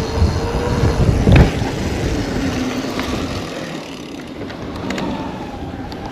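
Mountain bike rolling down a dirt trail: tyre rumble and wind noise on the camera, with a jolt about a second in, easing off as the bike slows. A whirring tone falls in pitch through the middle, and a few sharp clicks come near the end.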